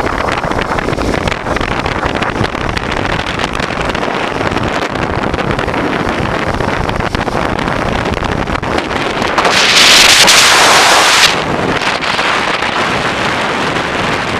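Riding wind buffeting the microphone of a moving 1988 Honda Transalp motorcycle, its V-twin engine running underneath. About nine and a half seconds in, a louder rush of noise lasts nearly two seconds, then cuts off.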